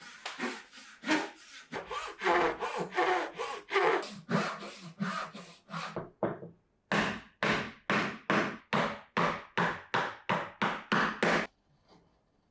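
Hand saw cutting wood in repeated back-and-forth strokes: quick, close strokes at first, then after a short pause about two even strokes a second that stop shortly before the end.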